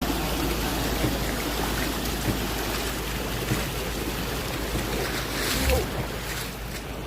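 Floodwater rushing through a street: a steady wash of water noise that swells briefly about five and a half seconds in.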